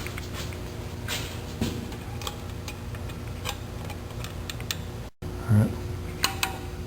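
Light metallic clicks and ticks of drum-brake hardware being worked by hand: steel brake springs and shoes being fitted with a spring tool, over a steady low hum. The sound drops out briefly a little after five seconds.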